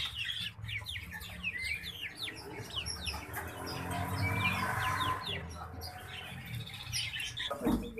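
Small caged birds chirping: many short, quick, falling chirps, thickest in the first few seconds, over a steady low rumble and a murmur in the middle.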